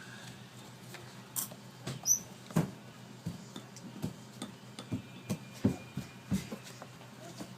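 An African grey parrot chick's beak clicking and knocking as it is hand-fed: a run of short clicks, a few a second and unevenly spaced, with a brief high squeak about two seconds in.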